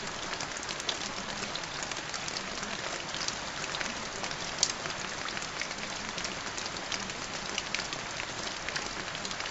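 Steady rain falling, with many individual drops ticking over an even hiss and one louder drop about halfway through.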